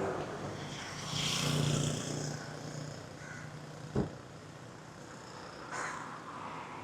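Outdoor street ambience with a vehicle passing in the first couple of seconds and a single sharp knock about four seconds in.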